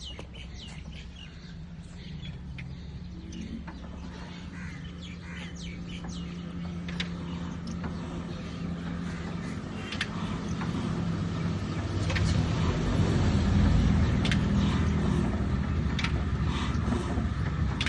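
Old diesel engine running with a steady low beat, growing louder about two-thirds of the way in, while birds chirp.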